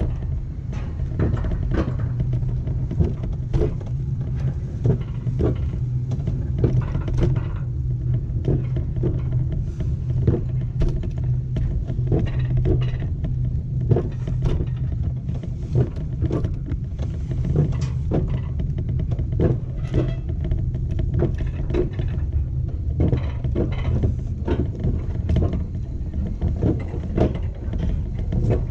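Wiegand alpine coaster sled running along its steel tube track: a steady low rumble from the wheels, with frequent clicks and knocks along the ride.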